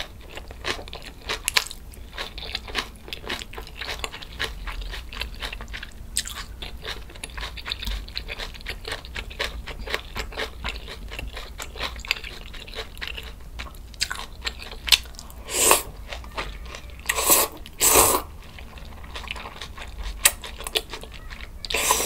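Close-miked crunchy chewing of fresh napa cabbage kimchi (geotjeori), a fast run of small wet crunches. In the second half come a few short, louder slurps as kal-guksu noodles are sucked in.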